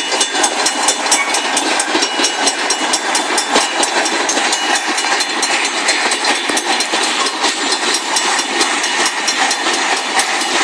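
Long freight train's cars rolling past a grade crossing, wheels clicking rapidly and continuously over the rail joints with a steady rattle.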